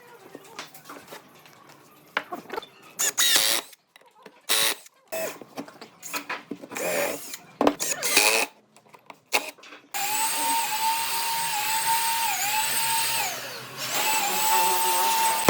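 Wood and tools being handled, with scattered knocks and clicks. About ten seconds in, a power drill starts and runs with a steady whine that dips in pitch several times as it takes load.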